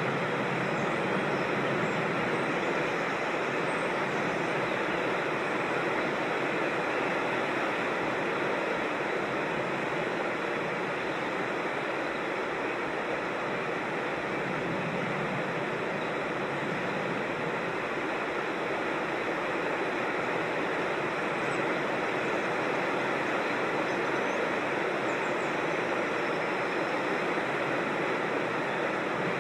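Steady rushing of a rocky creek and its small waterfalls: an even, unbroken water noise.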